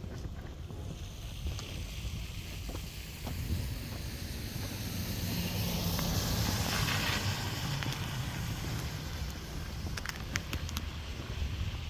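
A vehicle passing, its tyre noise swelling to a peak about six or seven seconds in and then fading, over a steady low rumble of wind on the microphone. A few sharp clicks near the end.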